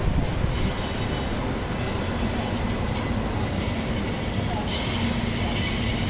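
CRH high-speed electric multiple unit running past on a concrete viaduct: a steady rumble of wheels on rail with a low hum, and a higher hiss joining about halfway through.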